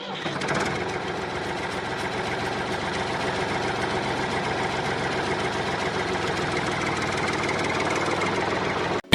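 A motor-driven machine running steadily with a fast, even low rhythm; it starts at once and cuts off abruptly near the end.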